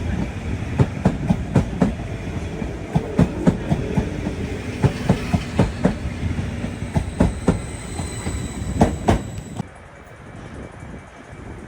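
A train passing close by, its wheels clicking repeatedly over rail joints over a steady rumble, with a thin high whine for a moment after the middle. The sound drops away suddenly near the end.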